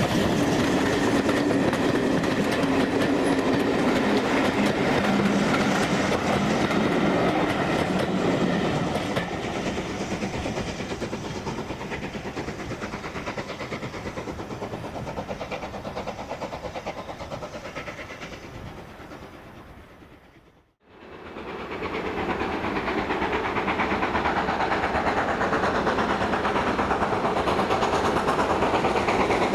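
Steam-hauled train running on the line, with steady rail noise that fades gradually as it draws away. About two-thirds through, the sound dips sharply to silence at an edit, and a second steam train's running comes up again, growing louder.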